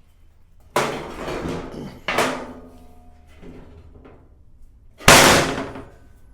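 Heavy quarter-inch steel plate banging and clanking as it is flipped over and set down: three sharp metallic bangs, the last and loudest about five seconds in.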